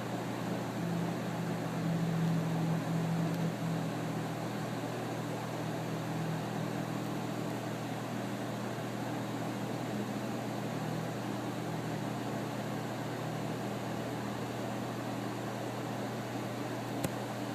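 A steady low mechanical hum with an even hiss over it, unchanging throughout, with one faint click near the end.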